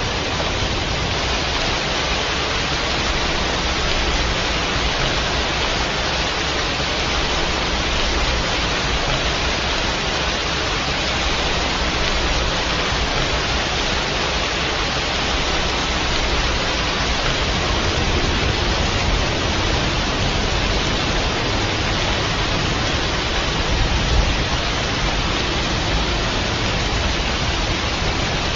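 Steady heavy rain, an even hiss without breaks, with one brief low thump near the end.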